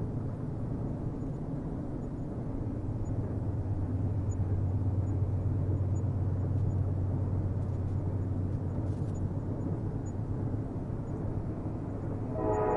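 Low, steady rumble of a distant train on the rails, swelling a little midway. Near the end a train horn starts to sound.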